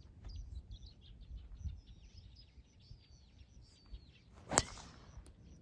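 A golf club strikes the ball once, a sharp crack about four and a half seconds in with a brief hiss after it. Birds chirp throughout.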